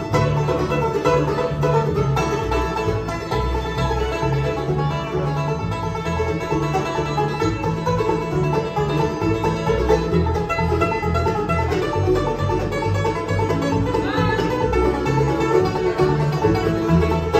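Bluegrass band playing, with the banjo to the fore over guitar.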